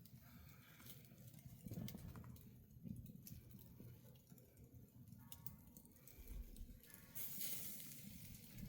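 Faint campfire crackling: scattered sharp pops and ticks over a low rumble.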